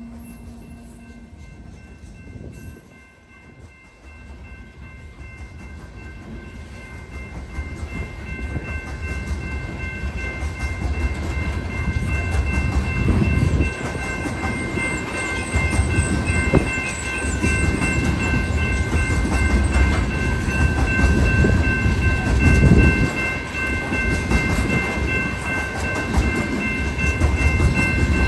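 BNSF coal train approaching, its low rumble growing steadily louder, with a few steady high-pitched tones sounding alongside it from about two seconds in.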